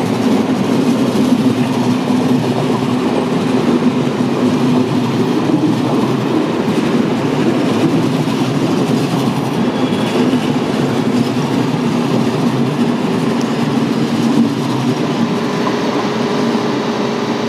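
ŽSR passenger train of red-and-white coaches passing by: a loud, steady rumble and rattle of wheels on the rails that holds until the last coach goes by.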